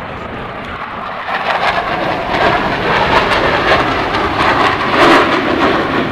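Aircraft flying past: a loud, crackling rushing roar that swells in from about a second in and stays strong to the end.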